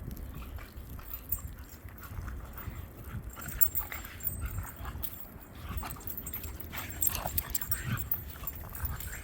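Two dogs playing together in snow, making short whimpering noises amid scuffling, with one sharp knock about three and a half seconds in.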